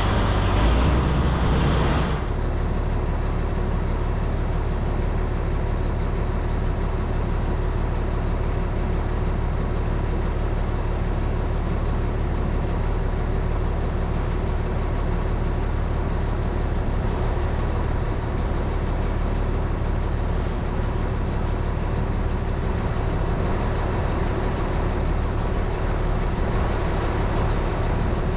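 A vehicle engine running steadily with a low drone. A louder, hissier noise on top stops about two seconds in.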